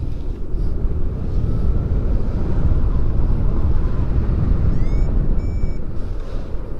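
Wind rushing and buffeting over the microphone in paragliding flight, a loud steady low rumble. About five seconds in, a short rising chirp, then a brief steady high beep.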